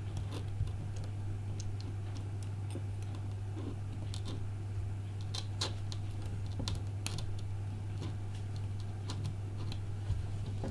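Light, scattered clicks and taps of small tools and tiny parts being handled while an iPhone 5 is taken apart or put back together, over a steady low hum.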